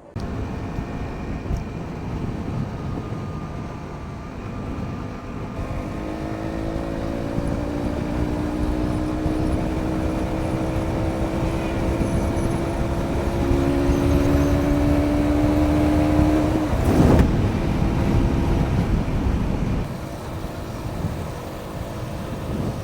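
Motorcycle on the move with heavy wind noise over the microphone; from about six seconds in the engine note rises steadily as it pulls through a gear, and a brief loud whoosh comes at about seventeen seconds in.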